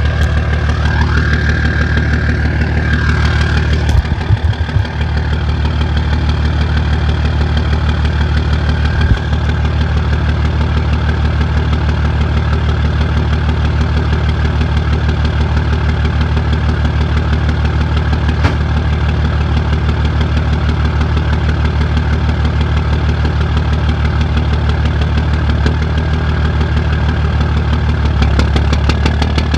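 A 2004 Dodge's 5.9-litre Cummins inline-six turbo diesel idling roughly, a steady knocking rumble. A high wavering whine sounds over it for the first few seconds.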